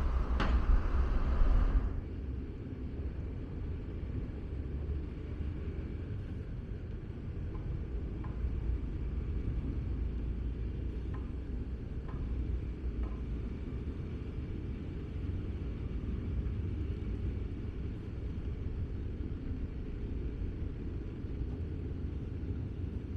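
Steady low outdoor rumble, louder and fuller for about the first two seconds, then settling to an even low drone with a few faint clicks.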